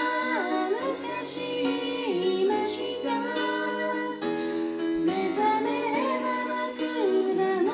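Female voices singing a slow Japanese pop ballad in two-part harmony over a soft piano karaoke backing.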